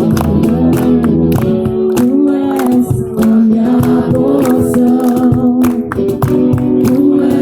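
Group singing of a Christian praise song with instrumental accompaniment and a steady beat.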